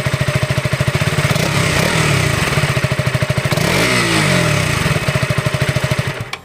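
KTM Duke 200 BS6 single-cylinder engine idling with an even exhaust pulse, revved twice in the middle, pitch rising and falling each time, then stopping near the end.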